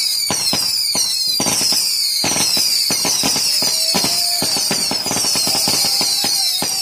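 Fireworks going off in a rapid, continuous barrage: a dense run of sharp bangs and crackles several times a second over a steady high hiss, with faint whistling tones in between.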